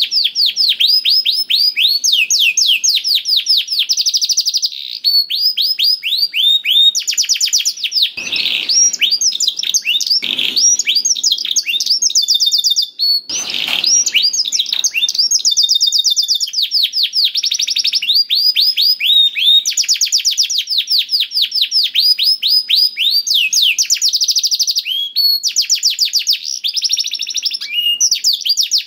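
Canary singing a continuous song of fast trills: rapid, evenly repeated down-sweeping notes in rolls that change every second or so. Three brief low noises break in near the middle.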